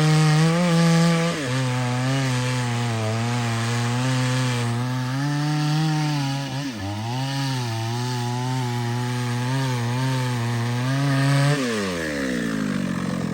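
Chainsaw cutting wood, its engine held at high revs under load. The pitch sags briefly about seven seconds in and recovers. Near the end the throttle is released and the engine winds down.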